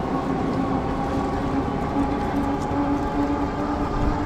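A Cyrusher Kommoda fat-tire e-bike's steady riding whine, its pitch edging slightly upward, over a low rumble of wind buffeting the microphone.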